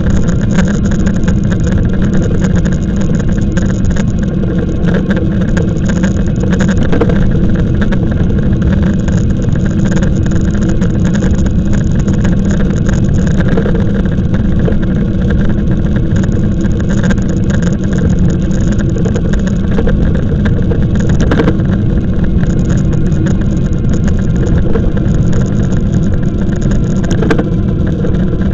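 Wind rushing over the microphone of a moving e-bike: a loud, steady low rumble.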